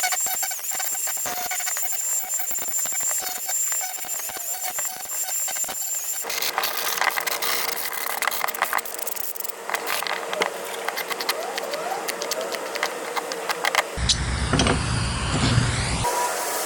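Angle grinder running and grinding against the wood of a small bandsaw box, roughing up the surface to distress it. The grinding is a continuous harsh hiss with a high whine, and its character changes abruptly about six seconds in and again near the end.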